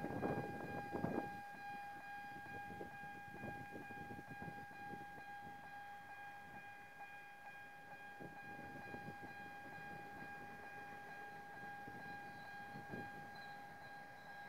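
Sri Lanka Railways M10A diesel locomotive and its passenger coaches running in the distance as the train approaches: a faint uneven rumble under a steady high tone. The first second is louder and rougher.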